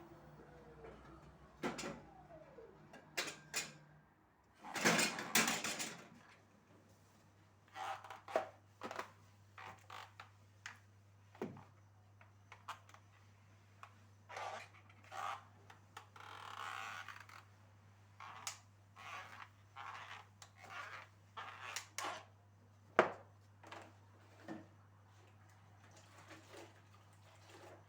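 Household handling noises: scattered knocks, taps and clatters of objects being picked up and set down, with a louder scraping rustle about five seconds in. A low steady hum starts soon after and runs on underneath.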